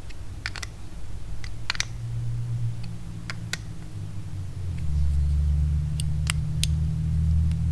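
Light clicks and taps of small carburetor parts and hand tools being handled during a Zama carburetor rebuild, scattered and uneven, over a low steady hum that gets louder about five seconds in.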